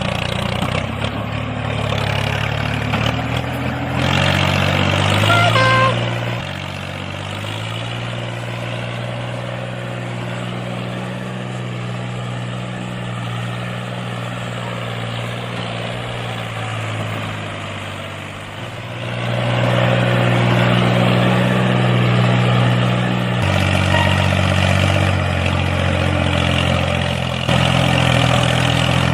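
A DIY mini tractor's small motor running with a steady hum whose pitch shifts several times. It gets quieter for a stretch in the middle and louder again for the last third.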